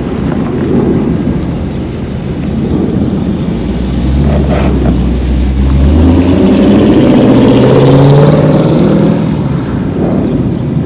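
Dodge Challenger R/T's 5.7 Hemi V8 through a Borla ATAK cat-back exhaust, rumbling, then accelerating about halfway through with its pitch rising and getting louder, easing off near the end.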